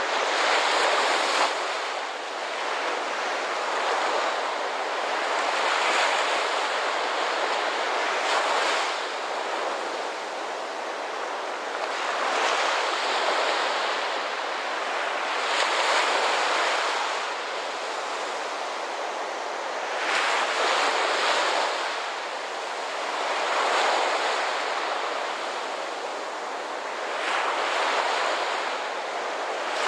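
Ocean waves breaking on a shore, the surf swelling and easing every few seconds in a steady wash.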